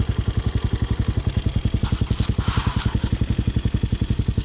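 Motorcycle engine idling steadily, an even, rapid pulsing exhaust beat. A brief hiss rises over it about halfway through.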